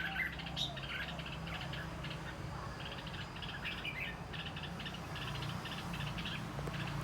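Birds chirping and calling, with rapid trilling runs of chirps and a few sliding calls near the start, over a steady low hum.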